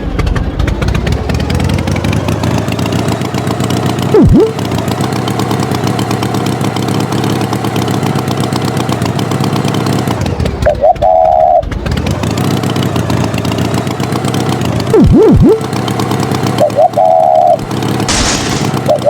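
Cartoon tractor engine sound effect running steadily, with a few quick swooping pitch slides and three short beeps, one around the middle and two near the end.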